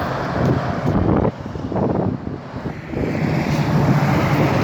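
Road traffic passing close by: a truck's engine and tyre noise, with wind on the microphone. It eases for a moment, then grows louder again from about three seconds in as another vehicle comes by.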